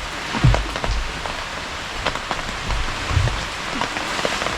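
Heavy rain falling steadily, with dense pattering of drops and several dull, low thumps about half a second in, around one second, and around three seconds in.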